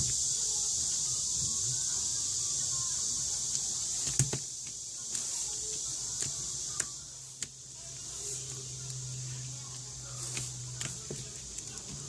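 Slime being handled and pressed, giving scattered sticky clicks and pops over a steady hiss.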